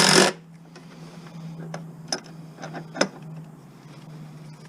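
A power driver runs briefly at the very start and stops, then a handful of light clicks and taps of small mower parts being handled, over a faint steady hum.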